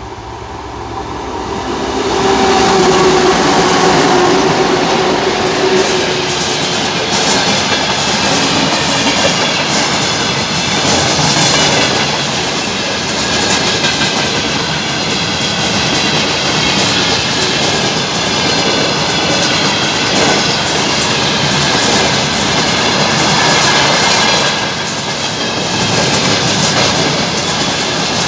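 3TE10M three-section diesel locomotive hauling a freight train past, growing louder over the first couple of seconds with its engine tones falling slightly as it goes by, then the freight wagons rolling past with a steady clickety-clack of wheels over rail joints.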